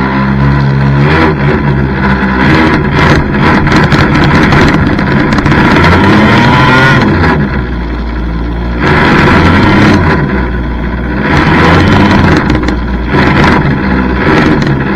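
Small two-stroke gas engine of a fifth-scale RC monster truck running hard, its revs rising and falling with the throttle in repeated surges.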